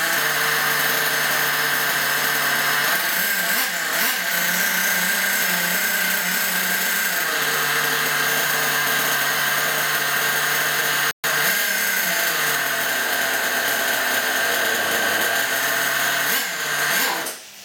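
Small nitro glow engine of a Hong Nor X1CR 1/8-scale RC buggy running on its first start, at break-in. It holds a steady high-pitched buzz that shifts slightly up and down in speed a few times. The sound breaks off for an instant about eleven seconds in and dies away at the very end.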